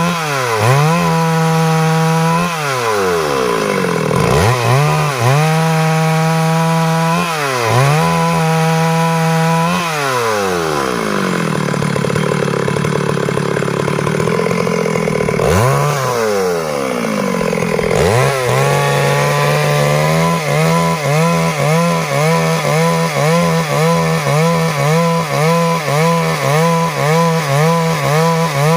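Stihl MS 382 two-stroke chainsaw running at high revs while cutting wood. Its pitch drops and recovers several times in the first ten seconds and sits lower for a few seconds in the middle. Near the end it wavers up and down in a quick, regular rhythm.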